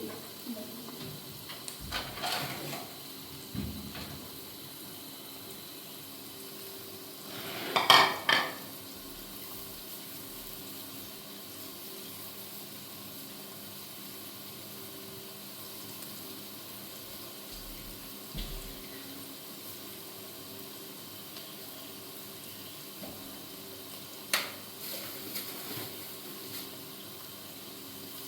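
A handful of short clinks and knocks over a steady low hiss. The loudest comes about eight seconds in, with smaller ones near the start, around the middle and near the end.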